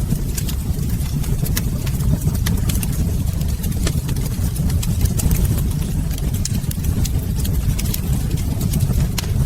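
Wood fire crackling in a fireplace: frequent sharp pops and clicks over a steady low rumble.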